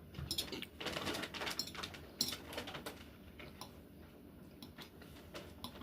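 Eating sounds: a run of small clicks and light clinks, dense for about the first three seconds and then thinning to scattered ticks.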